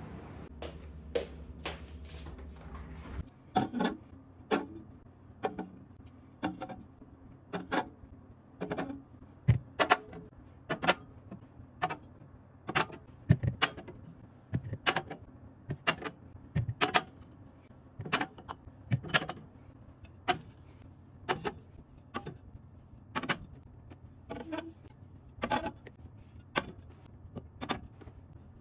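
A string of irregular light knocks and clatters, roughly one or two a second, as objects are handled and set down. A low hum runs under the first three seconds.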